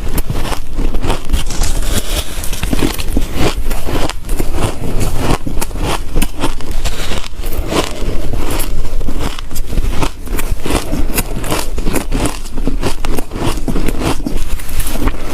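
Ice being bitten and crunched between the teeth, a rapid, loud run of crunches and cracks.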